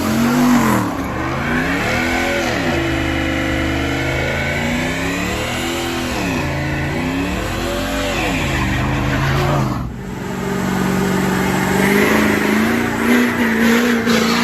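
Truck engine revving hard, its pitch swelling and dropping about four times, then held at high revs from about ten seconds in, as during a burnout.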